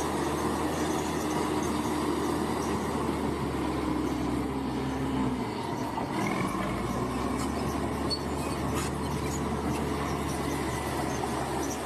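Bulldozer's diesel engine running steadily, with the metallic clanking of its steel crawler tracks. The low engine note drops briefly about halfway through, then picks up again.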